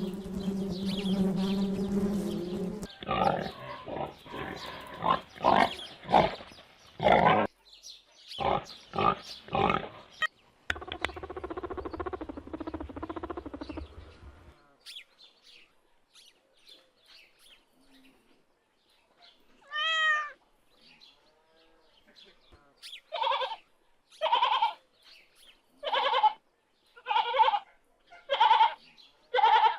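A succession of different animal calls: a held call, then a run of short calls, another held call, a lull, a single call that rises and falls about twenty seconds in, and a run of short, evenly spaced calls near the end.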